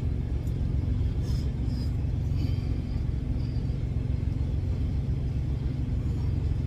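Steady low rumble of an idling truck, with a faint steady hum over it.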